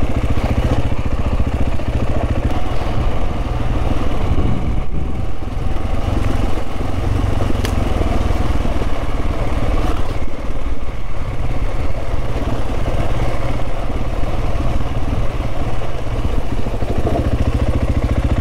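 Motorcycle engine running steadily as the bike rides a rough back-country trail, without big revs.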